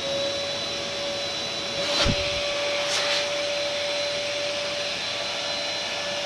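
Ribimex Cenetop 1200 W electric ash vacuum running at a steady high whine, with the hose fitted to the blowing outlet so it blows air out instead of sucking. Two short knocks come about two and three seconds in, and the motor starts winding down at the very end.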